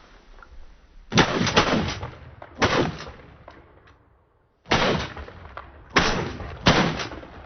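Shotguns firing at pigeons: about six shots in two volleys, each a sharp crack with a booming tail, with a short silent break between the volleys.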